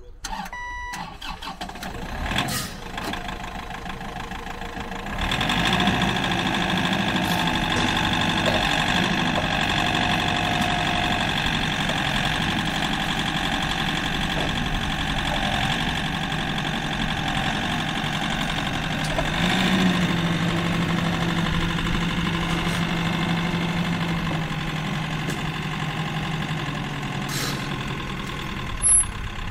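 Clark C30D diesel forklift engine, starting after a brief beep and a few seconds of quieter sound. It catches about five seconds in and idles steadily, rising briefly around twenty seconds in before settling back.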